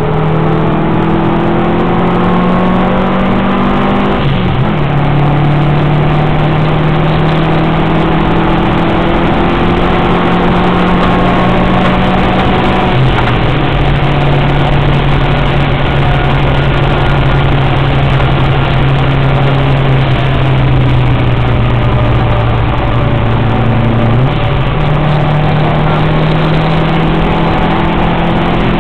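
Subaru WRX's turbocharged flat-four engine pulling hard on track. Its pitch rises and falls, with sudden changes of note about 4, 13 and 24 seconds in as it changes gear, over steady tyre and wind noise.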